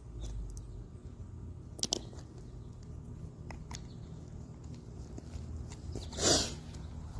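Small solar-powered bird bath fountain spraying water, with scattered drips and splashes. A sharp click comes about two seconds in, and a louder short rushing splash-like burst near the end.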